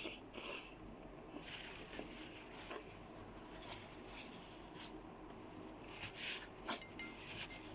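Close-miked eating sounds: chewing a large mouthful of kebab meat, with soft wet mouth noises coming in short irregular bursts and a few light clicks.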